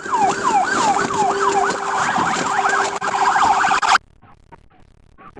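Police cruiser siren, loud and repeating quick falling sweeps that come faster about halfway through, over a steady hum. It cuts off suddenly about four seconds in, leaving only faint scattered ticks.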